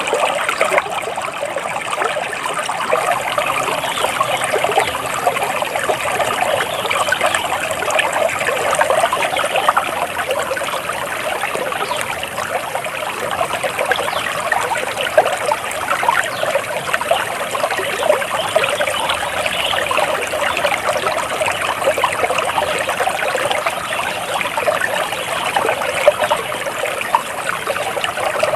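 Flowing water trickling steadily, like a small stream.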